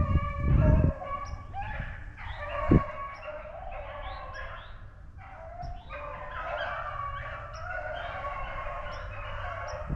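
A pack of rabbit hounds baying together, several voices overlapping in long drawn-out calls as they run a rabbit's trail. A short low knock comes almost three seconds in.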